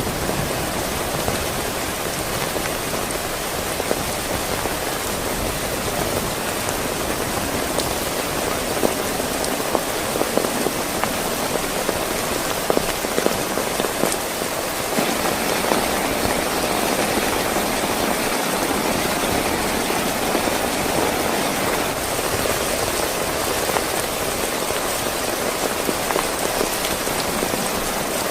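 Heavy rain falling steadily: a dense hiss with many separate drops ticking on a surface, slightly heavier from about halfway through.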